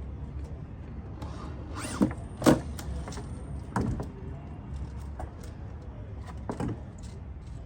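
A few irregular knocks on a building site, the loudest about two and a half seconds in, over a steady low rumble.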